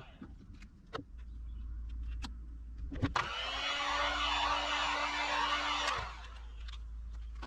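Heat gun's fan motor whirring with a steady tone, switched on and off. It cuts out just before the start, a few clicks follow, then it starts again with a rising whine near three seconds in, runs steadily and stops about six seconds in, warming butyl rubber sealant to peel it off a car door panel.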